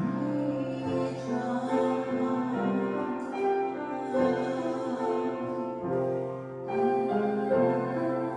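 Music: a slow instrumental passage on keyboard, held chords and a melody changing note every half second or so, with no singing.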